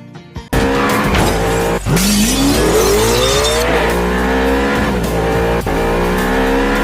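Car engine revving hard with tyres squealing. About two seconds in, the engine's pitch climbs steadily for a couple of seconds.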